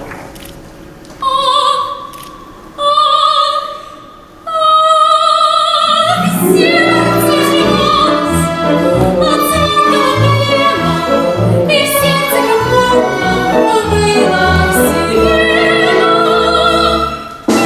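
A woman singing in an operatic style: three held high notes with wide vibrato, each a little higher than the last. Then instrumental accompaniment joins and the singing carries on over it.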